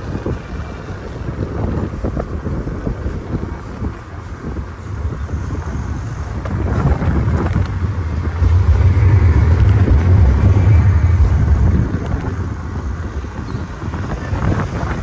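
Wind buffeting the microphone while cycling, a dense low rumble with a noisy hiss above it, louder for a few seconds past the middle.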